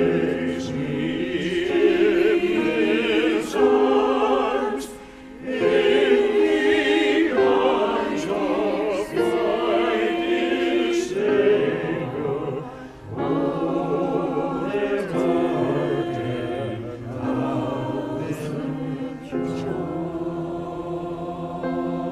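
Church choir singing a slow hymn anthem in long, sustained phrases, with short breaks between phrases about five and thirteen seconds in.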